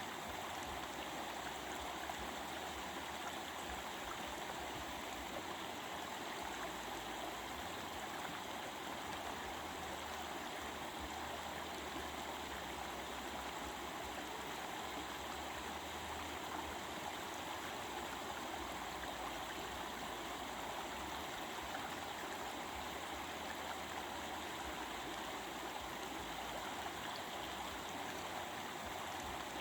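Stream of water running over rocks: a steady, even babbling and rushing of flowing water.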